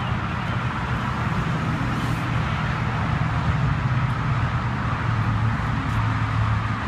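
Steady background road-traffic noise: an even low rumble with a hiss over it and no distinct events.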